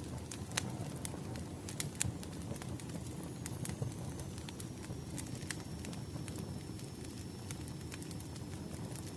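Wood fire burning, with a steady low rumble and irregular sharp crackles and pops from the burning logs.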